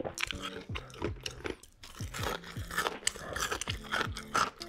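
Close-miked crunching and chewing of breaded fried food dipped in thick cheese sauce, in quick, uneven crackly bites.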